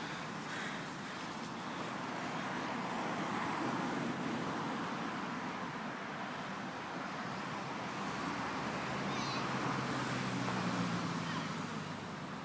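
Steady outdoor rushing noise. In the second half a passing vehicle's engine hum rises, peaks about two-thirds through, and fades near the end.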